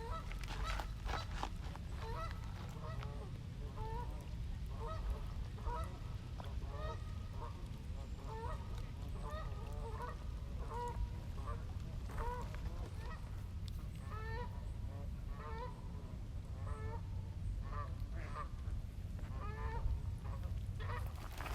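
A flock of geese honking, many short repeated calls overlapping throughout, over a low steady rumble.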